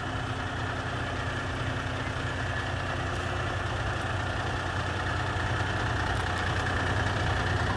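Heavy diesel truck engine idling with a steady low rumble, growing slightly louder toward the end.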